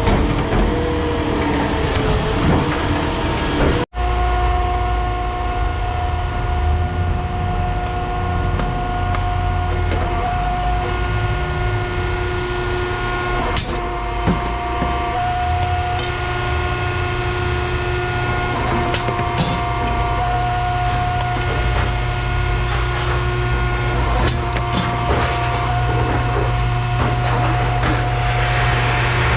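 A large motor running steadily, a low rumble under a steady whine, with scattered knocks and clicks. About four seconds in the sound cuts out for an instant and comes straight back.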